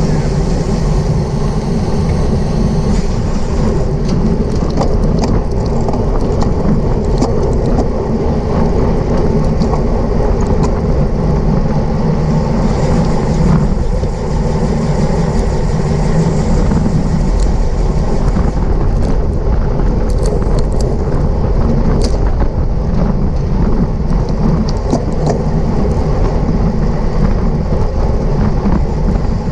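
Steady wind noise buffeting the microphone of a camera mounted on a racing bicycle at race speed, mostly a low rumble. A few faint clicks sound through it, mostly around the middle and a little later.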